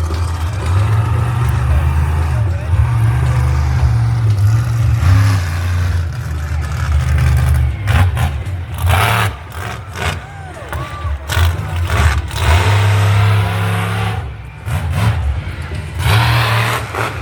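Loud motor engines running and revving in an arena, with the engine note rising and falling.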